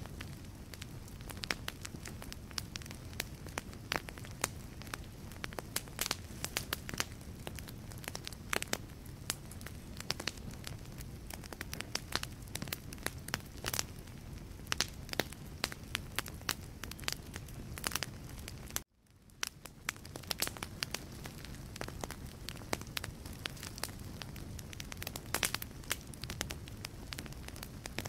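Wood fire crackling in a fireplace: frequent sharp pops and snaps over a steady low rush of flame. About 19 seconds in the sound cuts out for an instant, then fades back in.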